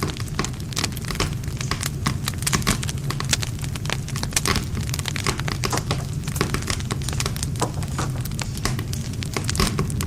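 Wood campfire crackling: dense, irregular pops and snaps of burning wood over a steady low rumble of the flames.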